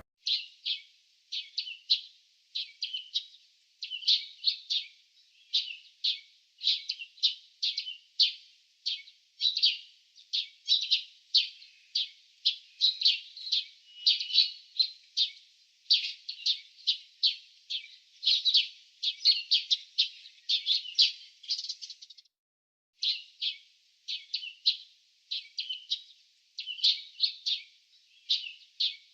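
Small birds chirping: a fast, continuous string of short high chirps, several a second, with a brief pause about 22 seconds in.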